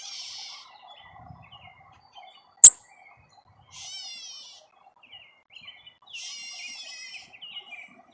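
American robins calling: three bouts of high, quickly repeated chirps, about four seconds apart, with small scattered chirps between them. A single sharp click a little under three seconds in is the loudest sound.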